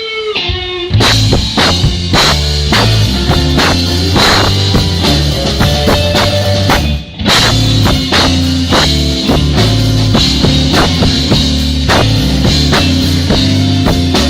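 Rock band playing an instrumental passage on drum kit, bass and electric guitar. A held note opens it, the full band comes in about a second in, and there is a short stop around the middle.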